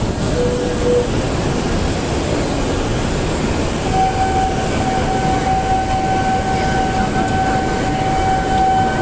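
E5 series Shinkansen at the platform as it departs: a loud, steady rushing noise, a short beep about half a second in, and a steady high whine from about four seconds in as the train begins to pull out.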